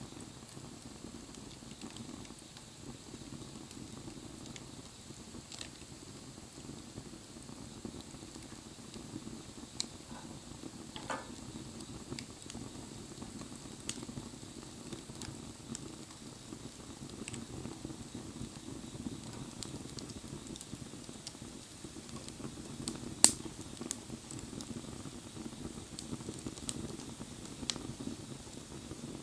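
Wood bonfire burning: a steady low rush of flame with scattered crackles and snaps, and one sharp, loud pop about two-thirds of the way through. A brief thin whistle sounds a little over a third in.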